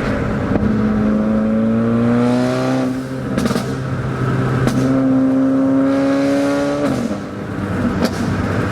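Straight-piped Mercedes-AMG CLA45's turbocharged four-cylinder revving twice: a climb in engine speed, then a second rev held for about two seconds. Each let-off is followed by sharp pops from the exhaust.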